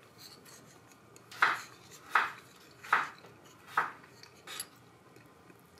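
Close-up chewing of a mouthful of spaghetti: four strong, evenly paced chews about three-quarters of a second apart, then a softer one.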